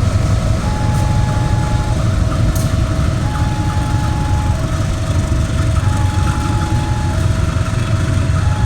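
Railway level-crossing warning alarm sounding a steady two-tone signal, a high tone and a lower tone alternating about once a second. It rings over the loud low rumble of a train.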